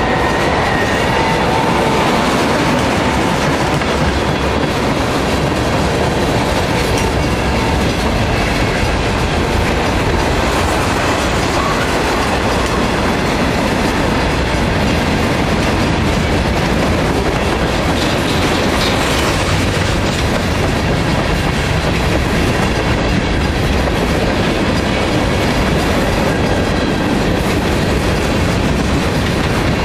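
Freight train of tank cars and covered hoppers passing close by, its wheels rolling steadily and loudly on the rails.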